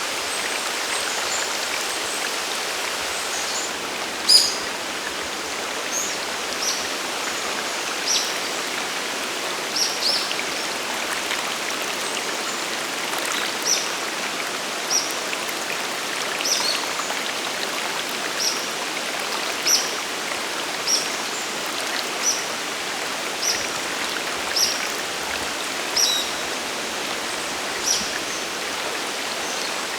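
Sagiri Falls and its mountain stream: a steady rush of falling and flowing water. From about four seconds in, a bird gives short high chirps, one about every second or so.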